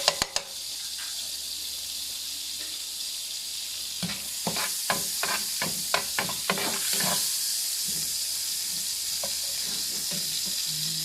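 Crushed garlic frying in melted margarine and a little oil in a pan, with a steady sizzle. A few sharp knocks right at the start, then a run of stirring strokes against the pan from about four to seven seconds in.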